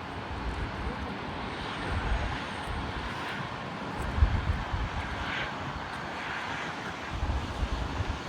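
Jet airliner engine noise from a departing airliner: a steady rushing sound with an uneven low rumble underneath.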